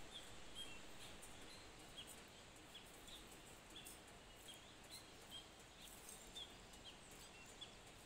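Faint outdoor ambience with small birds chirping: short, high calls, about two a second at irregular intervals, over a quiet hiss.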